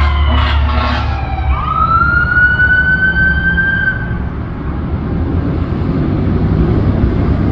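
Fire engine siren wailing, with a couple of short horn blasts at the start. The siren climbs again about a second and a half in, holds, then dies away after about four seconds, leaving the truck's engine and road rumble.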